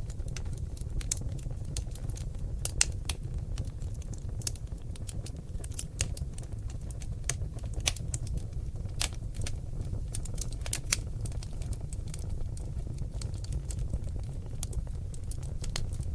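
Seasoned oak logs burning in a fireplace, crackling with irregular sharp pops and snaps over a steady low rumble of the flames.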